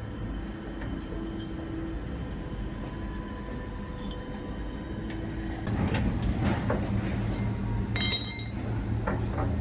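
Workshop noise during disassembly of a screen printing machine: a steady low hum, then a louder rumbling from about six seconds in. About eight seconds in comes one sharp, ringing metal clink as parts are handled.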